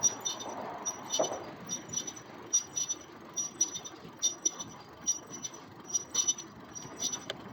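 An electric trike rolling steadily, with a cluster of short ticks and a faint high squeak repeating about every three-quarters of a second.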